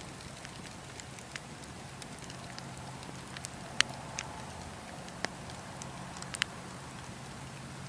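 Wood campfire crackling: irregular sharp pops and snaps, the loudest a little under 4 s in, over a steady low background of the burning fire.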